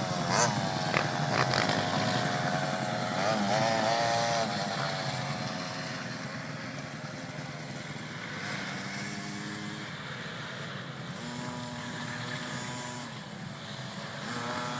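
Motocross motorcycle engine revving, its pitch rising and falling again and again as the throttle opens and closes. It is loudest for the first four seconds or so, then fainter, and picks up again near the end.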